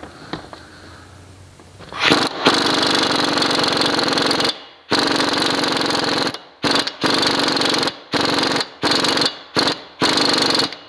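Small 3/8-inch impact wrench running a new axle nut onto a front axle shaft: one long run of about two and a half seconds starting two seconds in, then about six short trigger bursts as the nut seats, the hammering getting a little tingy near the end.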